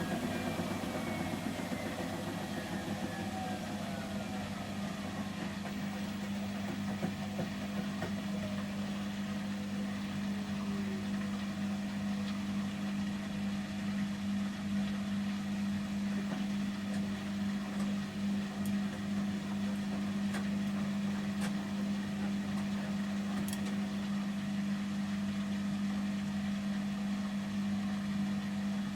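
Samsung Series 5+ AI SmartThings washing machine on its final spin at 800 rpm, a steady hum from the drum and motor. Fainter whining tones fall in pitch over the first ten seconds or so.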